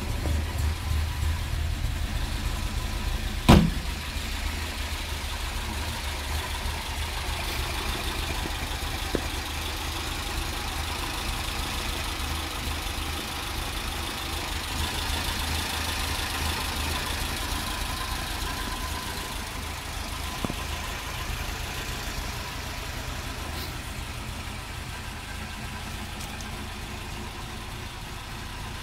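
Alfa Romeo 2000 twin-cam four-cylinder engine idling steadily. A single sharp knock about three and a half seconds in.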